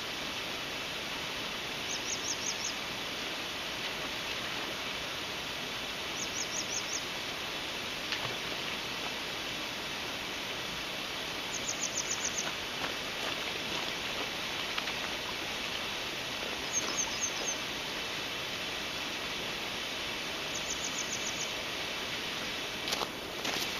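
A small bird calling a short quick run of high notes, repeated about every four to five seconds, over a steady rush of running stream water. A couple of sharp knocks near the end.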